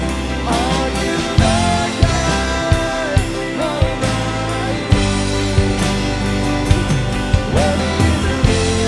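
Live worship band playing a song: drum kit keeping a regular beat over bass and guitars, with a voice singing a held, sliding melody.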